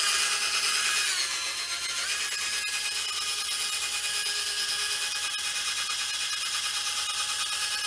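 Electric drill spinning a foam buffing pad, polishing compound into a plastic headlight lens. It gives a steady motor whine that drops in pitch about a second in as the pad loads up, then climbs back and holds steady.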